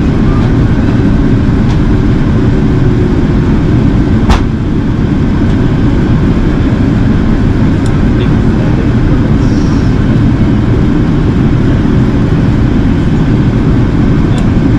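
Steady, loud cabin noise inside an Airbus A380 in flight: the low rush of airflow and engines, even throughout. A single sharp click sounds about four seconds in.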